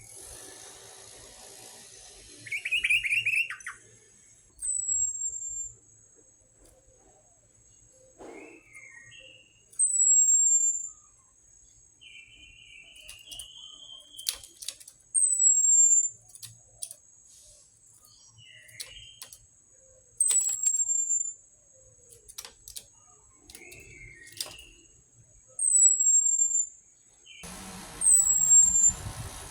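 Orange-headed thrush singing: a short, high, falling whistle repeated about every five seconds, with softer, lower chirps and trills in between.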